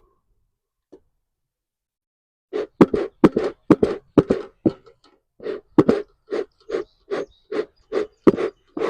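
Bee smoker's bellows pumped in short, even puffs, about two or three a second, starting a couple of seconds in, working the smouldering pine-needle fuel up into smoke.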